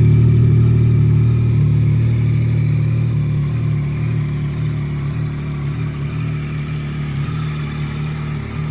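Yamaha XSR900 GP's 890 cc three-cylinder engine idling steadily through its Akrapovic exhaust, slowly getting a little quieter.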